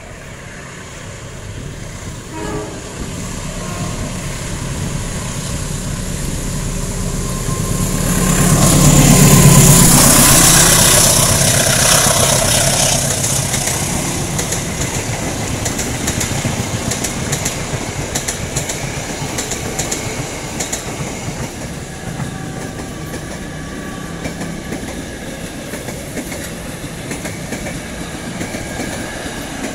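Passenger train hauled by a CC203 diesel-electric locomotive approaching and passing close by. The sound builds to its loudest about nine seconds in as the locomotive goes past, then the coaches' wheels give a rhythmic clickety-clack over the rail joints that slowly fades as the train moves away.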